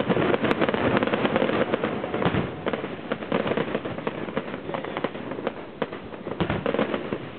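Fireworks finale: a dense, continuous barrage of bangs and crackles from bursting aerial shells, loudest in the first couple of seconds and easing slightly after that.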